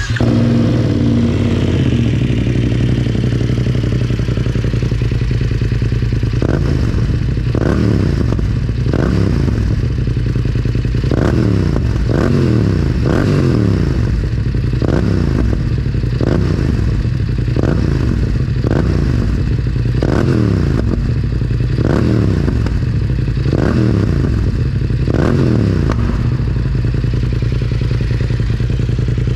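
BMW F900R's parallel-twin engine with a full Arrow aftermarket exhaust, idling and then blipped repeatedly: quick throttle blips about once a second, each rev dropping straight back to idle, before it settles to idle again near the end.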